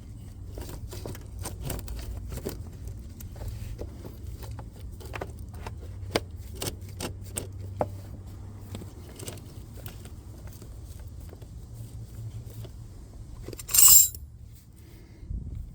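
Irregular light metallic clicks and clinks of a spanner and battery-cable fittings being handled, over a steady low hum, with one loud, short scraping rasp near the end.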